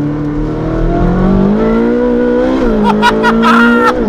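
Ferrari 458 Speciale's naturally aspirated V8, breathing through a Novitec Stage 3 sports exhaust, accelerating hard. Its note climbs steadily through the revs, drops at an upshift about two and a half seconds in, climbs again and drops at another shift near the end.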